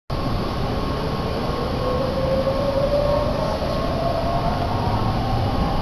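Running noise inside a Meitetsu Takehana Line commuter train car, a steady low rumble with a whine that rises slowly in pitch as the train picks up speed.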